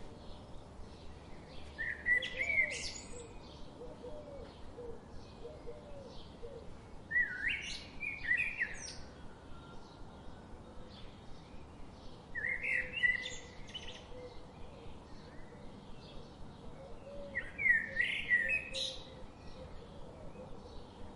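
Songbird singing a short phrase four times, about every five seconds, each lasting a second or two, over a steady background of faint rapid chirping.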